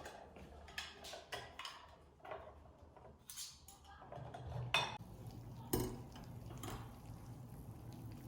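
Dishes and cutlery clinking: a string of light knocks and clinks, the loudest two about halfway through. A low steady hum comes in about four seconds in.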